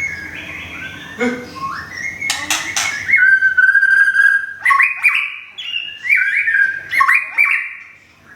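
White-rumped shama singing: a varied run of clear whistled phrases that jump in pitch, with a long steady whistle about three seconds in and a few sharp clicking notes before it.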